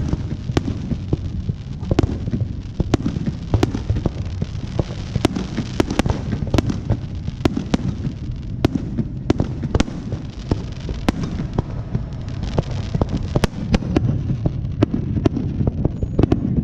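Fireworks going off continuously: a rapid run of many sharp bangs and crackles, several a second, over a steady low rumble of distant booms.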